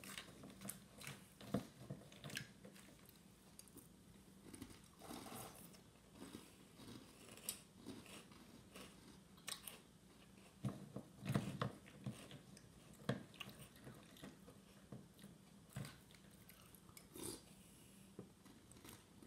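Faint chewing of crunchy chocolate-coated Thin Mints cereal in milk: irregular little crunches and clicks, with a few louder clusters of bites.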